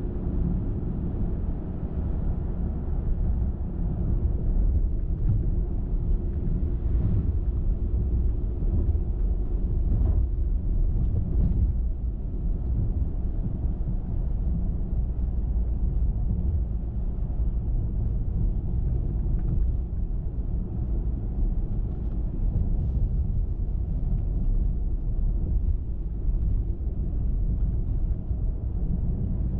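A car driving at steady speed: an even low rumble of tyres on the road and the engine.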